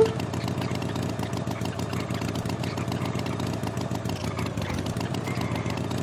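An engine idling steadily with a fast, even putter.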